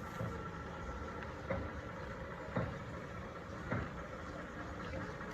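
Car running steadily with a low rumble, with three short knocks about a second apart.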